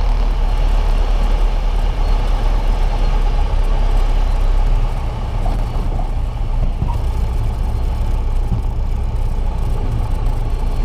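Piper Cherokee's single piston engine and propeller running steadily; the sound drops a little about five seconds in.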